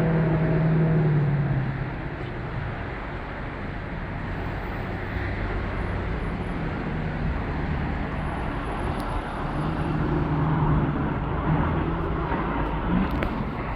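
Motor vehicle running, with steady engine and road noise. A low engine note swells at the start, fades after a couple of seconds and rises again about ten seconds in.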